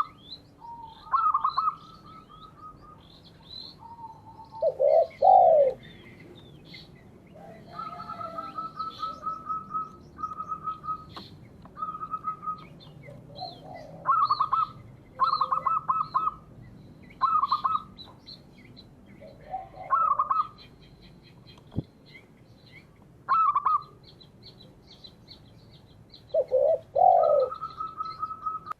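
Doves cooing in repeated phrases: spotted dove and zebra dove calls, some low falling coos and some quick runs of short notes, with faint high chirps of small birds behind them.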